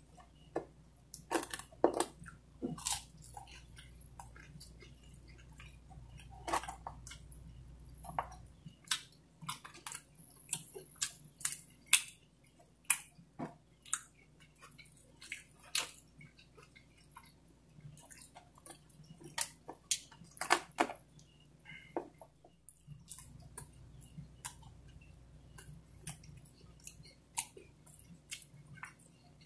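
Close-up mouth sounds of a person eating pizza: irregular wet chewing, lip smacks and clicks, some of them sharp.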